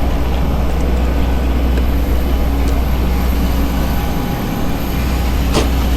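Steady low engine rumble, with one sharp click near the end.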